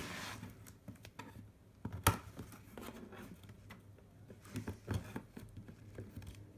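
Scattered small clicks and knocks of objects being handled, the sharpest about two seconds in, over a low steady hum.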